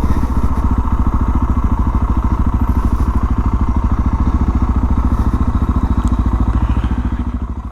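Suzuki DR650's single-cylinder four-stroke engine running steadily under way, a fast even thumping pulse, that dies away near the end.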